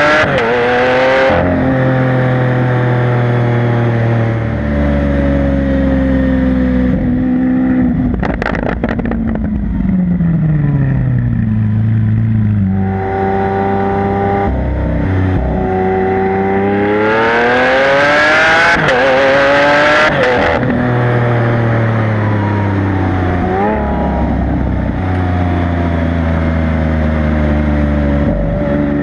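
Lamborghini Aventador LP700-4's 6.5-litre V12 through its factory racing exhaust, driven hard. About eight seconds in there is a short burst of crackling as the revs fall away, then a long rising pull of about seven seconds that drops off sharply before the engine settles to steady running.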